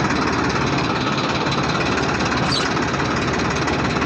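Farmtrac 60 EPI tractor's diesel engine running steadily with a 9-foot super seeder hitched behind it.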